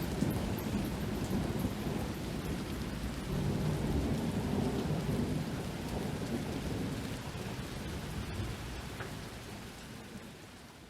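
Steady rain with a long rolling rumble of thunder underneath that swells a few seconds in and dies away toward the end.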